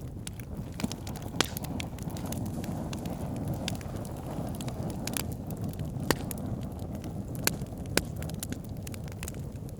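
Wood campfire burning: a steady low rushing of flames with irregular sharp crackles and pops of burning wood, a few louder snaps standing out.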